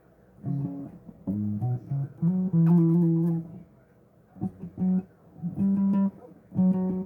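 Bass guitar played solo: two short phrases of plucked notes with a brief pause between them.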